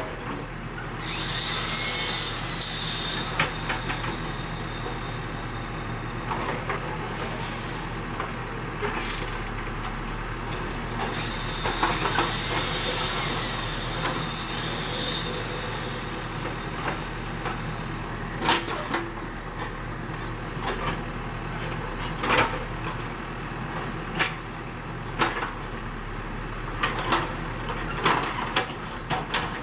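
ACE AX124 backhoe loader's diesel engine running steadily while it digs soil. There are bursts of hiss early on and again about halfway, and in the second half a string of sharp knocks and scrapes from the bucket working the earth.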